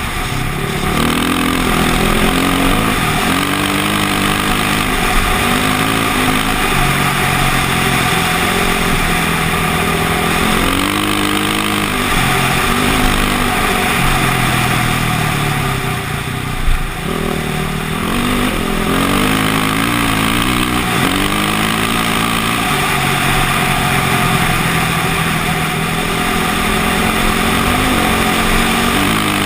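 KTM motocross bike engine, heard from on the bike, revving up and backing off again and again as it is ridden over rough ground. A brief thump about seventeen seconds in.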